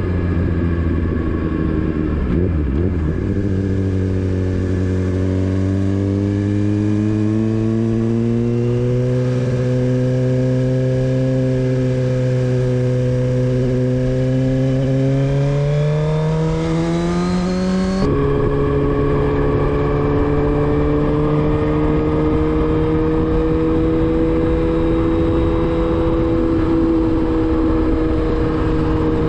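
Motorcycle engine under way. After a gear change a few seconds in, the revs climb slowly for about fifteen seconds. They drop sharply at the next gear change, then hold steady.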